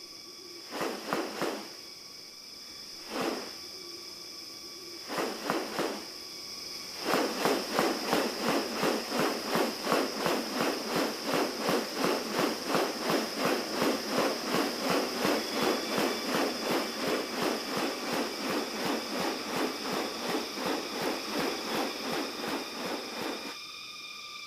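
Rainforest insects buzzing steadily in several high tones. Over them comes a raspy pulsing sound: a few separate pulses at first, then from about seven seconds a long even run at about two to three a second, which stops shortly before the end.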